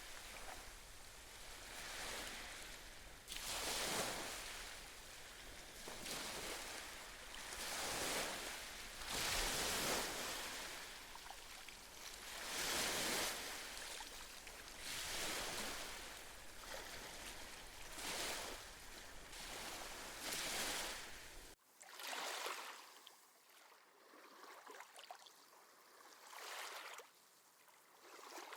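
Sea waves washing in and drawing back, one surge every two to three seconds. About 22 seconds in the sound cuts off suddenly to a quieter, thinner lapping of water.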